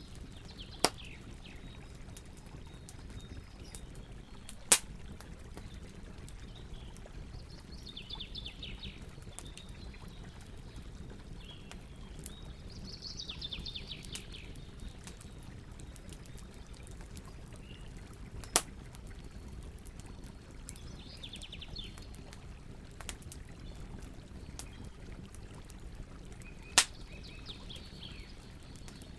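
Wood campfire crackling with faint ticks and four loud, sharp pops, over the steady rush of river water. Birds chirp in short bursts several times.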